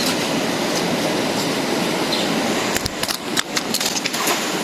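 Steady rushing of a flowing stream, with a few small clicks and knocks in the second half.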